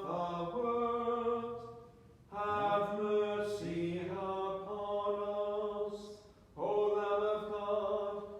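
A voice chanting the litany's responses on a single sustained reciting note, in three phrases with short breaths between them.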